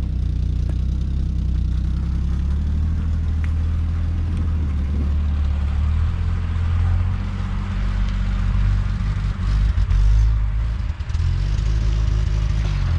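1975 Plymouth Duster's 225 slant-six engine running a little rough, idling steadily and then pulling away. The engine note shifts about six seconds in and swells loudest about ten seconds in as the car drives past.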